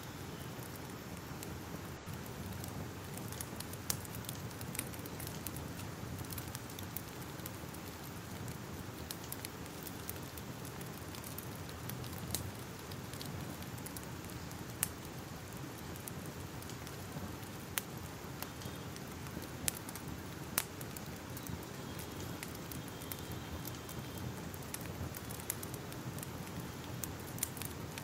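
Fire crackling: a steady rushing hiss with irregular sharp pops and snaps scattered throughout.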